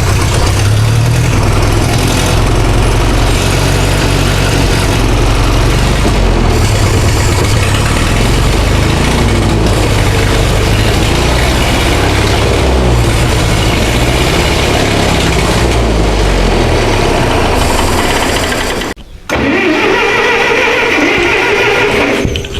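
Massey Ferguson 65 tractor's gasoline engine running loudly and unevenly on choke, a carburettor engine that would only run with the choke on. About nineteen seconds in it cuts off abruptly, and a quieter, differently pitched mechanical sound follows.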